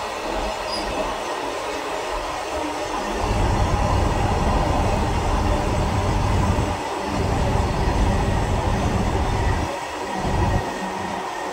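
Freight train of covered goods wagons rolling past at speed: a steady rumble and rattle of wheels on the rails, dipping briefly twice.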